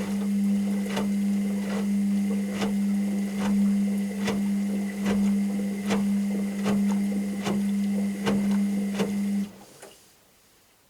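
Washing machine running a wash, its motor humming steadily as the drum turns, with a regular knock about every 0.8 seconds as the drum and laundry tumble. The motor cuts off suddenly about nine and a half seconds in, a pause in the drum's rotation.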